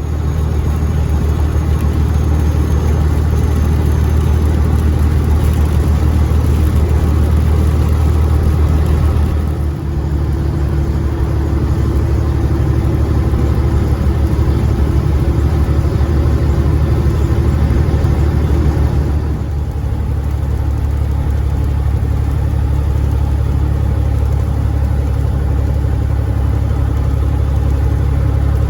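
Caterpillar 3406E inline-six diesel of a Freightliner FLD120 idling steadily. Its note shifts slightly about ten seconds in and again about twenty seconds in.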